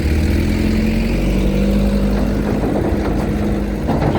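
Vehicle engine running steadily at low revs, a low rumble with a held hum that steps up slightly in pitch about a second and a half in.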